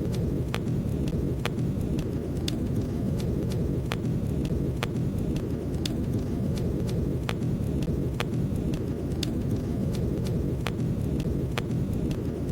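Wood fire crackling in a fireplace: sharp irregular pops about once or twice a second over a steady low rush.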